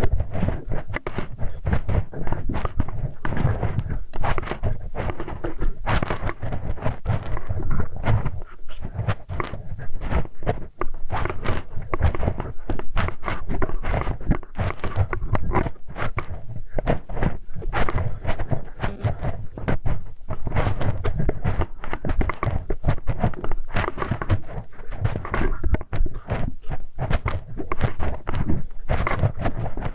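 Close-miked ASMR ear-cleaning sounds: a metal hex key (Allen wrench) scraping, rubbing and clicking against a microphone's ear. It is a continuous, dense crackle of small knocks and scratches with a heavy low rumble.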